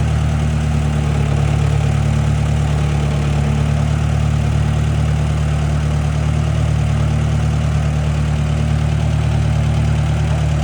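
Oliver 660 tractor engine running at a steady, unchanging speed, a loud, even low drone with no revving.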